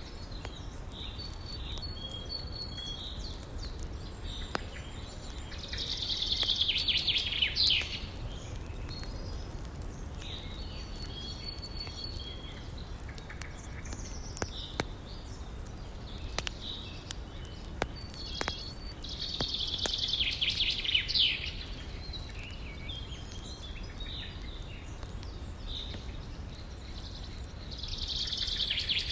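Songbirds calling throughout, with a louder song phrase that falls in pitch three times, about every eleven seconds. Beneath them run a steady low rush of river water and scattered sharp crackles from a wood fire.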